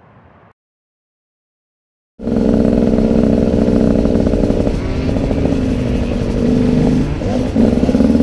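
After a brief silence, the 2016 Husqvarna TE 125's two-stroke engine cuts in suddenly about two seconds in, running hard at high revs under way. Its pitch dips and rises near the end as the throttle is rolled off and reopened.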